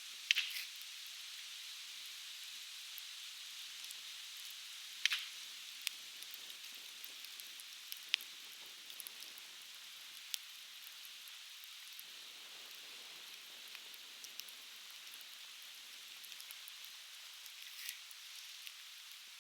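Conifer firewood burning in an open fire pan, crackling with scattered sharp pops over a steady hiss. The loudest pops come near the start and about five seconds in.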